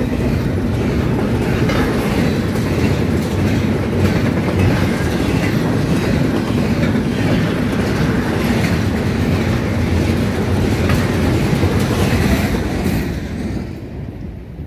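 Double-stack intermodal train's well cars passing at speed: a steady loud rumble of steel wheels on rail with repeated wheel clacks, dropping away about thirteen seconds in as the last car goes by.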